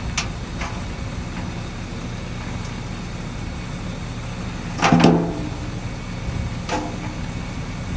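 Heavy earthmoving machinery's diesel engine running steadily. Light knocks near the start, a loud knock with a brief ringing tone about five seconds in, and a smaller one a couple of seconds later.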